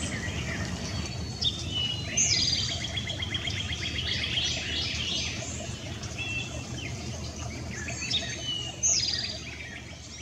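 Several songbirds singing: repeated phrases with fast trills and quick down-slurred notes, the louder songs about two seconds in and again near nine seconds, over a steady low background rumble. The sound fades near the end.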